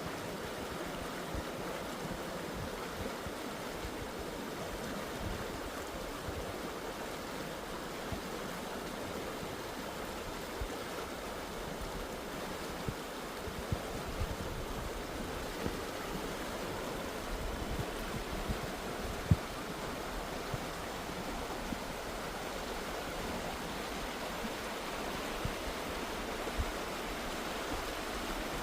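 Steady rush of Tumalo Creek's flowing water, with a few soft low thumps, the sharpest about two-thirds of the way through.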